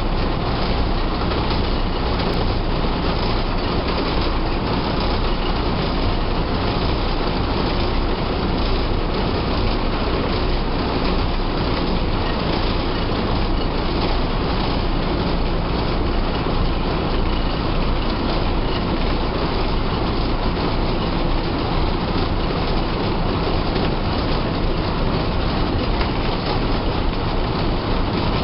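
Diesel engine of a TSRTC bus running steadily while under way, heard from inside the driver's cabin with road and body rattle noise mixed in.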